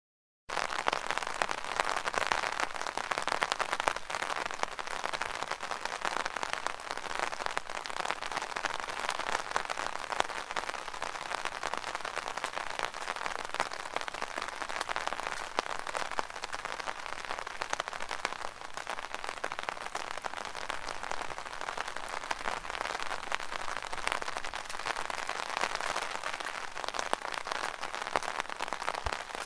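Rain drumming on an umbrella's fabric canopy: a dense, steady patter of many small drop impacts. It starts abruptly about half a second in, after a brief silent gap.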